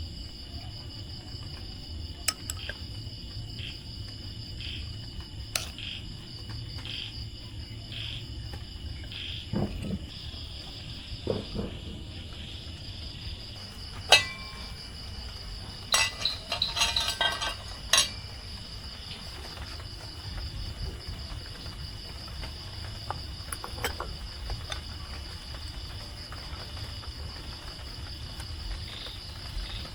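Insects calling steadily, with a few sharp clinks of tableware about halfway through.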